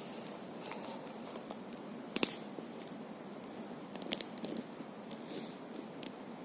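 Bonfire crackling: a handful of sharp, irregularly spaced pops and snaps over a steady hiss.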